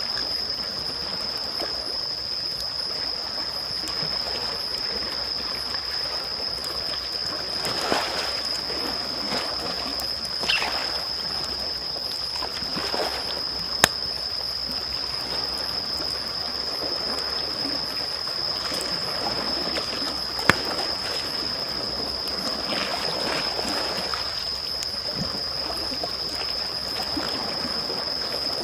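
Small waves lapping and washing in soft swells, with a wood fire crackling and two sharp pops from the burning wood. A steady high-pitched whine runs underneath throughout.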